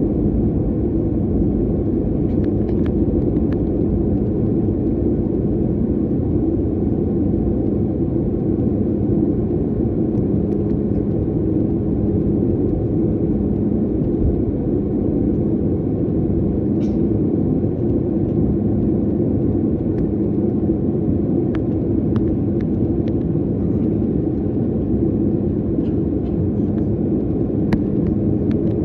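Airliner jet engines and airflow heard from inside the passenger cabin: a steady, low drone with a constant hum, and a few faint ticks from the cabin.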